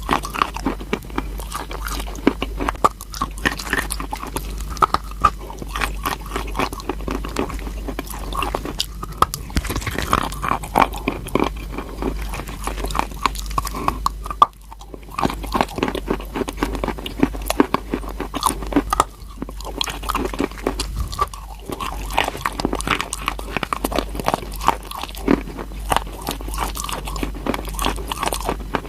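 Close-up crunching of a person biting and chewing crunchy chalk, a dense run of crackles broken by a few short pauses.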